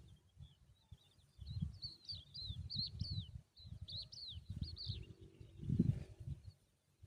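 Small birds chirping at a nest: a rapid run of high, quick down-sweeping notes lasting a few seconds, then stopping. Low rumbling thumps come and go underneath, loudest near the end.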